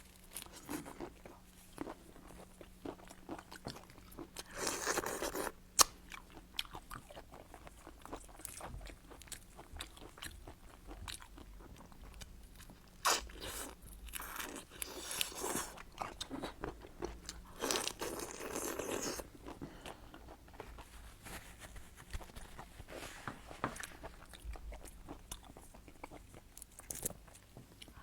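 Close-miked eating sounds: seafood being bitten, crunched and chewed, with irregular sharp clicks and a few louder crackly stretches of about a second each.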